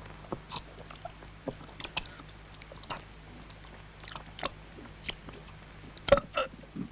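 A person eating beans noisily: chewing and smacking, with scattered sharp clicks and a louder cluster of sounds about six seconds in.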